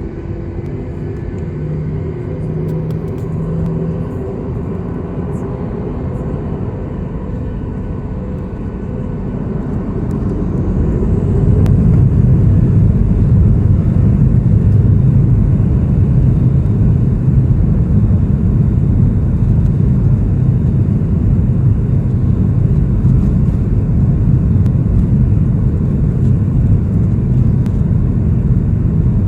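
Boeing 737-800's CFM56 jet engines heard from inside the cabin, running steadily at low power, then spooling up about ten seconds in with a rising whine to a loud, steady roar of takeoff thrust.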